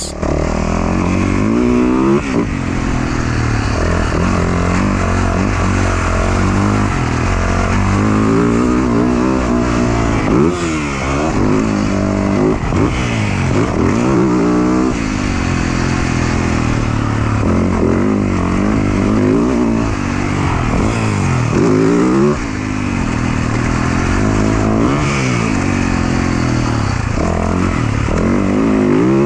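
A 450cc four-stroke motocross bike engine ridden hard on a track. It revs up and falls back off again and again as the throttle is opened and shut.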